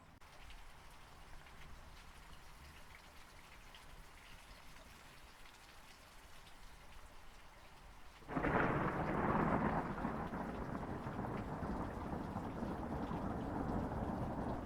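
Steady rain pattering, then about eight seconds in a clap of thunder breaks in suddenly and rolls on as a loud rumble over the rain.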